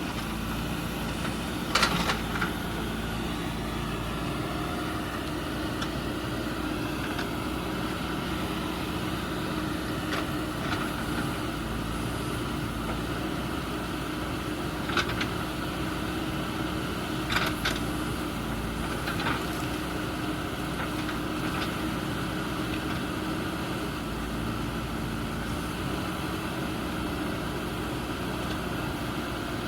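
Backhoe loader's diesel engine running steadily, with a few sharp knocks about two seconds in and again around fifteen to nineteen seconds in.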